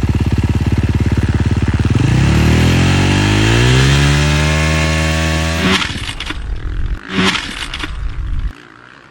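Dirt bike engine idling with an even putter, then revving up steadily for a few seconds until it breaks off with a sharp clatter about two-thirds of the way in. It runs on roughly, clatters again, and stops about a second before the end, as something on the bike gives way.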